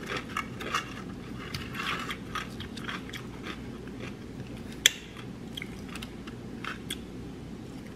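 Close-up chewing and crunching of a mouthful of salad, with small irregular crunches throughout and occasional clicks of the fork in the takeout container, one of them sharper about five seconds in.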